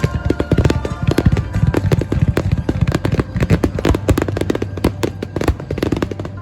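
Fireworks going off in a dense, rapid string of cracks and bangs, heard together with music.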